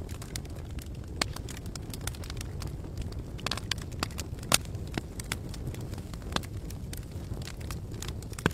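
Campfire burning with a steady low rumble and irregular sharp crackles and pops of burning wood, one louder pop about halfway through.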